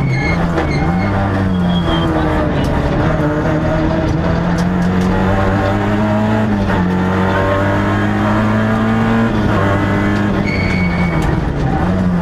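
Peugeot 106 XSi rally car's four-cylinder engine at full stage pace, heard from inside the cabin, its revs climbing and dropping several times as the driver works through the gears.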